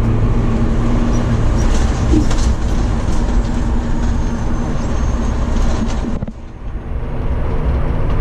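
Fire truck engine running and road noise heard from inside the cab as the truck drives down a straight road, with a brief dip in the noise about six seconds in.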